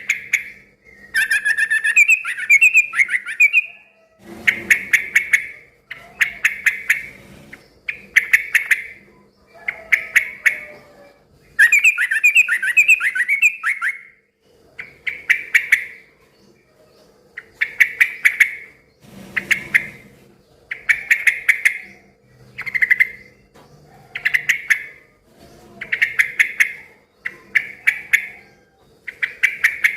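Yellow-vented bulbul (trucukan) singing loudly. Short bubbling phrases repeat every second or two, with two longer, rapid chattering runs near the start and in the middle.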